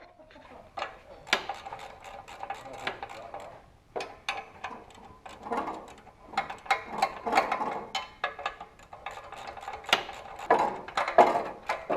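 Irregular metallic clicks and knocks of hand tools, with some ratchet-like clicking, as exhaust fittings are worked on and bolted up.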